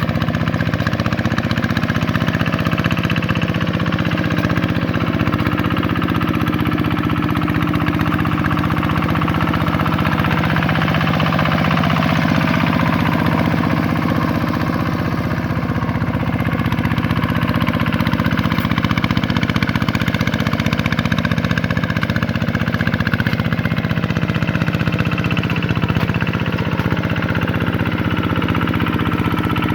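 Vikyno RV125-2 two-wheel tractor's single-cylinder diesel engine running steadily while working a paddy field, with a slight dip in loudness about fifteen seconds in.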